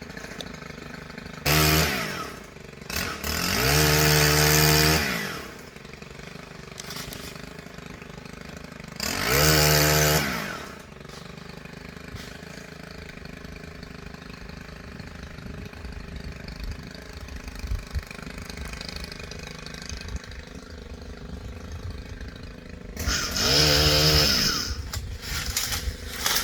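Two-stroke chainsaw idling, opened up to full throttle four times for one to two seconds each, its pitch rising and then dropping back to idle.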